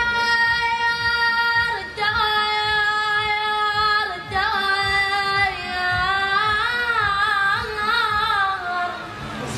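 A single high-pitched voice singing an Iraqi-style song without words being spoken: long held notes, a brief break about two seconds in, then from about four seconds a wavering, ornamented melodic phrase that slides downward near the end.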